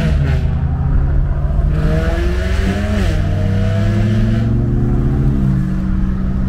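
Car engine running at a steady low note, with a higher engine pitch climbing and then dipping and rising again about two to three seconds in, under a rush of hiss.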